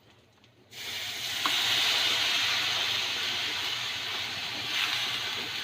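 A steady hiss that starts abruptly just under a second in and holds.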